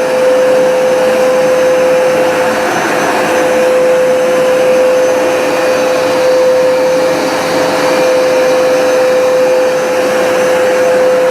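Hoover SmartWash automatic carpet cleaner running, its suction motor giving a steady hum over a rushing air noise.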